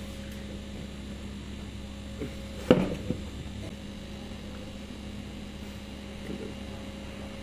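Steady electrical hum, with a single sharp knock about three seconds in.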